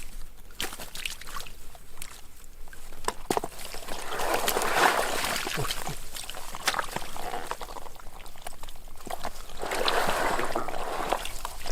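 Water sloshing and trickling, with two louder surges of splashing and scattered small clicks.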